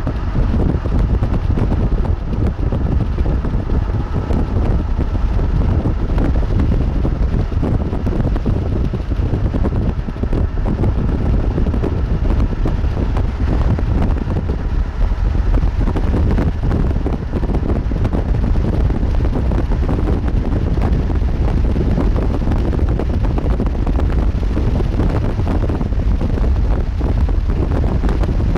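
Strong wind buffeting the microphone: a steady, loud low rumble with fluttering gusts.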